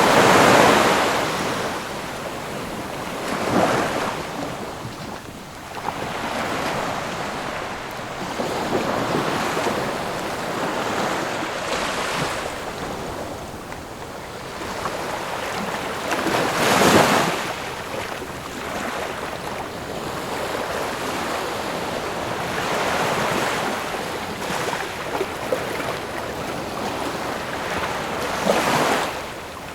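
Ocean waves breaking and washing on a shore. The surf swells into loud crashes at the start, near 4 s, around 17 s and near 29 s, with steady wash between them.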